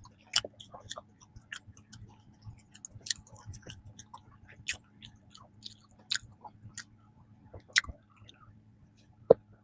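A person chewing food close to the microphone: irregular soft mouth clicks and smacks, with a sharper one near the end.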